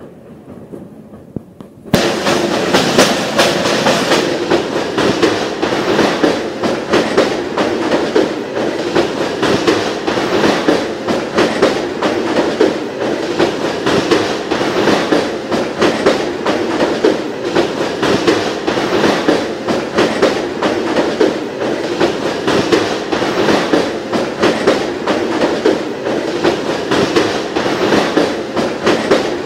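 Train wheels rumbling and clattering loudly over a steel truss railway bridge, heard from aboard the train, with a fast run of sharp knocks. The noise jumps suddenly louder about two seconds in and stays loud.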